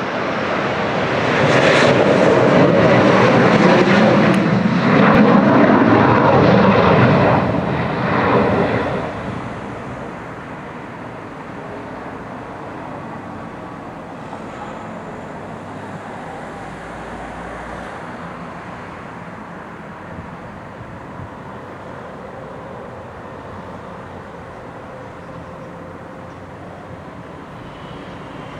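Saab Gripen jet fighter's single Volvo RM12 turbofan engine during landing: a loud jet noise for the first eight or nine seconds as it passes, then dropping to a steady, much quieter jet noise.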